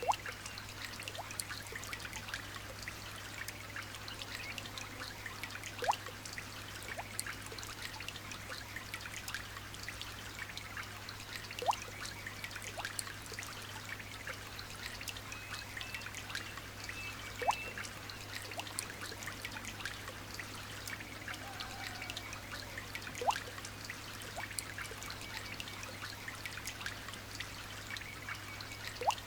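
Light rain falling: a steady patter of many small drops, with a sharper, louder drip about every six seconds and faint high bird chirps now and then. A steady low hum runs underneath.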